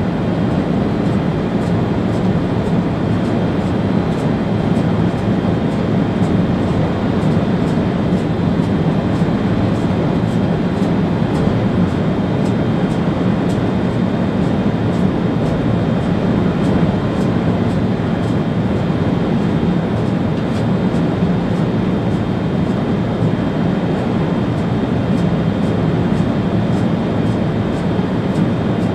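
Steady running noise of an ÖBB Railjet train at speed, heard inside the driver's cab: a continuous low rumble with a faint high whine over it.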